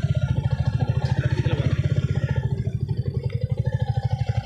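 Motorcycle engine running steadily, its firing strokes heard as a rapid, even low pulsing.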